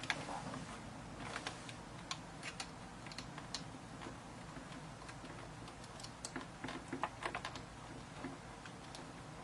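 Irregular light clicks and taps of small plastic parts being handled: the clamp kit of a Sena 20S motorcycle intercom being worked loose and fitted onto a helmet.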